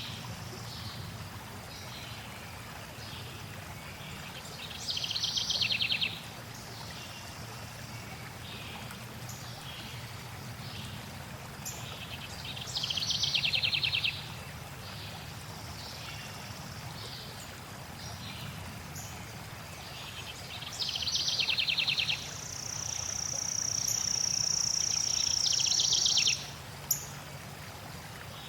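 Songbird repeating a short, rapid, high trilled phrase about every eight seconds, with one long steady high whistle near the end, over a steady rush of flowing water.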